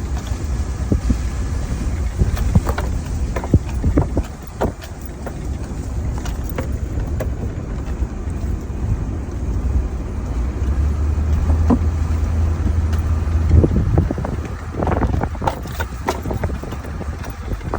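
A one-ton pickup truck driving slowly over a rough field: the engine drones low and steady, louder for a few seconds past the middle, under frequent knocks and rattles as the truck bounces over the ground.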